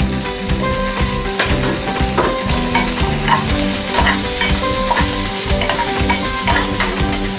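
Halved Brussels sprouts sizzling in hot oil in a nonstick pan while being stirred and turned with a plastic slotted spatula. The sizzle is steady, with scattered scrapes and knocks of the spatula against the pan.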